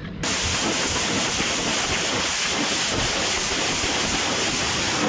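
Pressure washer jet spraying water onto the bulldozer's metal, starting suddenly just after the start and running steadily.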